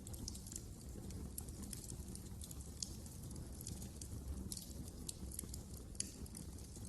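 Wood fire burning in a fireplace: irregular sharp crackles and snaps over a steady low rumble of the flames, with one louder pop about six seconds in.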